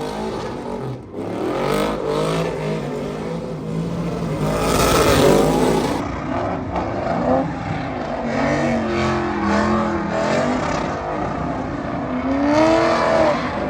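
Truck engine revving hard during a burnout: its pitch climbs and falls again and again, loudest about midway and again near the end, over a constant rushing noise.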